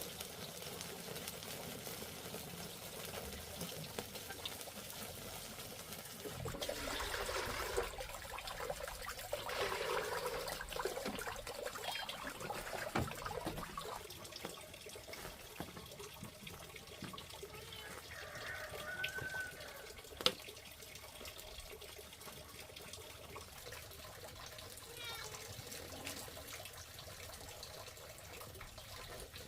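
Water running steadily, as from a tap or while washing, with louder splashing stretches about a third of the way in and a sharp click about two-thirds through.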